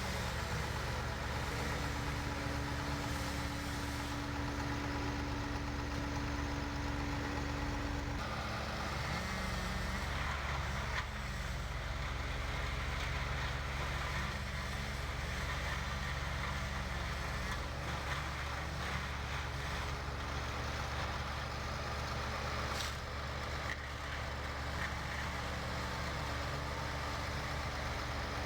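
Heavy engine, such as a truck's, running steadily at an even pace, with a steady hum in it that stops about eight seconds in.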